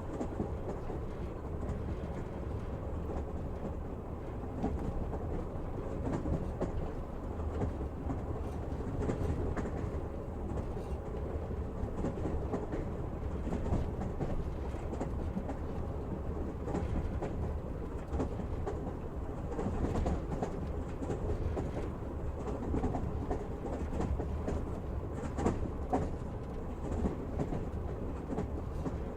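Passenger train heard from inside a carriage: a steady low rumble of the wheels on the rails with scattered rattles and clicks.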